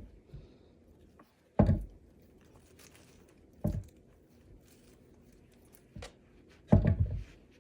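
Bengal cat biting and chewing at dried catnip: a few loud crunching, rustling bursts a couple of seconds apart, the longest cluster near the end.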